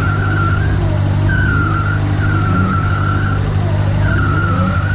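Off-road car's engine running steadily under load, with a high-pitched squeal that comes and goes four times in stretches of about a second.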